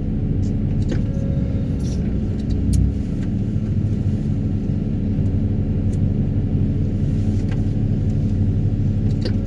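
Daedong 350T excavator-mounted vibratory hammer working to extract a steel sheet pile, heard as a steady, heavy low drone of engine and vibration with a few light clicks. The operator reckons the pile comes out hard because it was driven pushed tight.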